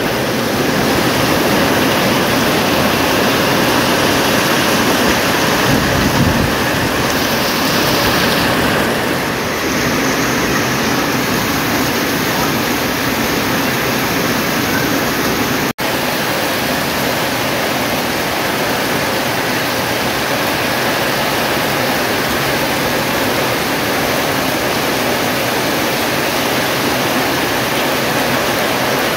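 Heavy tropical downpour, a dense steady rush of rain falling on corrugated metal roofs and trees. The sound cuts out for an instant about halfway through.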